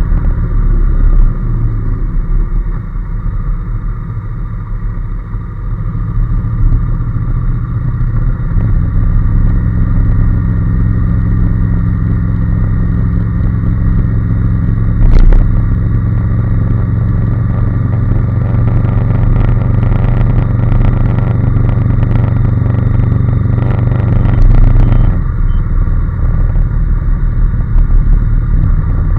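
Honda NC750S parallel-twin engine running steadily under way, a low drone with road and wind noise. The engine note drops about 25 seconds in, and there is a single sharp knock about halfway through.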